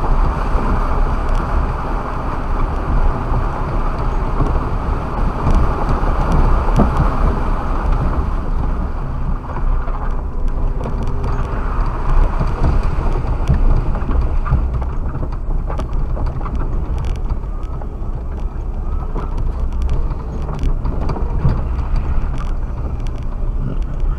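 Suzuki Jimny driving over rough quarry ground, heard from inside the cabin: a steady low rumble of engine and tyres, with scattered knocks and rattles. The upper part of the rumble eases about ten seconds in.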